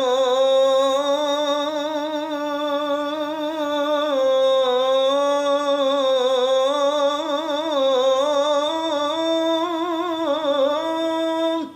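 A muezzin's solo voice singing the adhan, drawing out one long, richly ornamented melismatic phrase on 'rasūlullāh' with a wavering pitch. The voice breaks off sharply just before the end.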